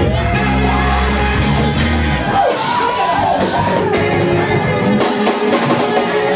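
Loud live church music for a praise break, with drum kit, bass and organ-like held chords, and voices singing and shouting over it.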